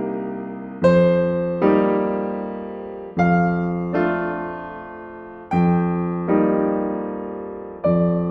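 Slow piano music: a repeating pattern of chords, each struck and left to ring out and fade before the next.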